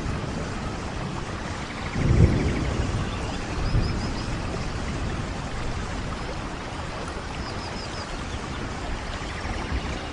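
Steady heavy rainfall, an even hiss of falling water, with a low rumble swelling about two seconds in and again near four seconds, like distant thunder.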